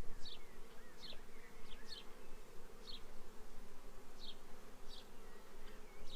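Swarm of honey bees buzzing steadily around an opened hive during a frame inspection, with a short high chirp repeating about once or twice a second above the hum.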